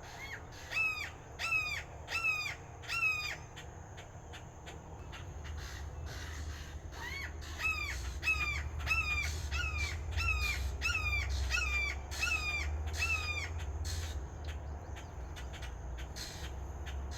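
Red-shouldered hawk calling: a run of about five loud screams that drop in pitch, a pause of a few seconds, then a second run of about ten, repeated a little under twice a second.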